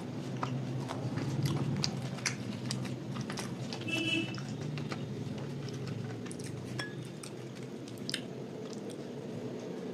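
A person chewing a mouthful of luchi and curry, with wet mouth sounds and scattered small clicks, over a steady low hum.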